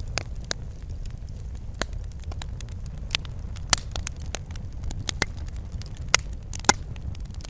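Wood fire burning in a fireplace, crackling and popping with scattered sharp snaps over a steady low rumble of the flames.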